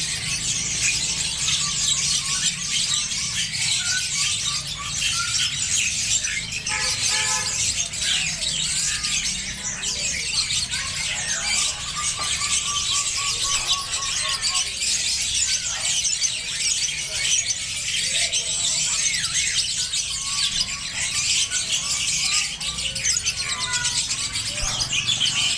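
Many small birds chirping and squealing at once, a dense, continuous chatter with occasional clearer calls standing out.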